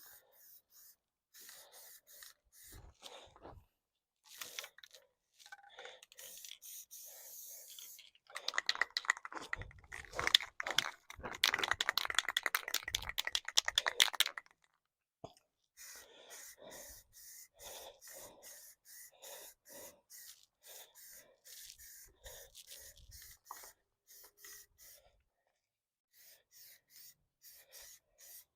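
Aerosol spray paint can in use: short, intermittent bursts of spraying, with a louder stretch of about six seconds starting some eight seconds in, a fast rattle like the mixing ball as the can is shaken.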